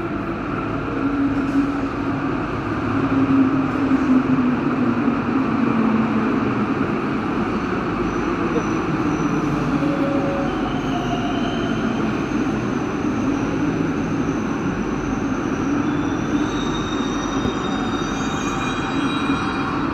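Santiago Metro NS-16 train running through the station with a steady rumble of wheels and running gear. About halfway in, high-pitched whines from its traction equipment join the rumble, with several tones stacking up near the end.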